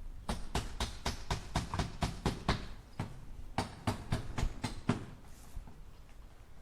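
Hammer driving nails into wood in quick runs of strikes, about four a second: a run of about ten, a short pause, then a run of about six, with little after that.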